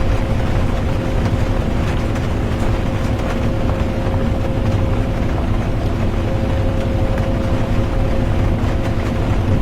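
Bus interior on the move: a steady engine drone and road rumble with a constant hum, and a light patter of rain on the bus.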